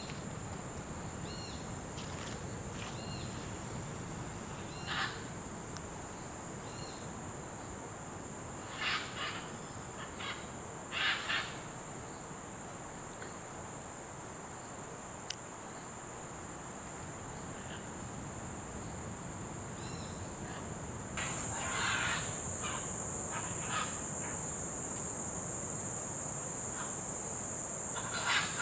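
Steady high-pitched insect drone that becomes suddenly louder about two-thirds of the way through. Short, harsh, squawking bird calls come at intervals over it, a few at a time.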